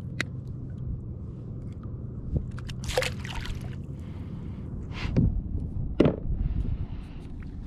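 Water sloshing and gurgling around a kayak, with a few louder sloshes about three, five and six seconds in.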